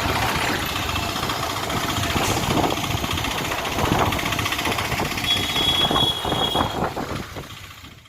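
Motor vehicle engine running on the move, with road and traffic noise. A brief high steady tone sounds about five seconds in, and the sound fades out near the end.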